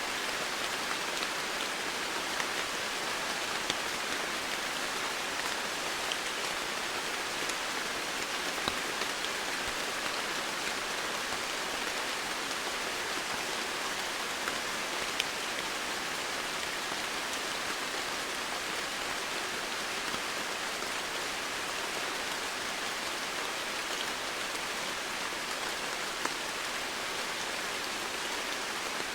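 Steady rain falling, with scattered individual drops ticking on surfaces.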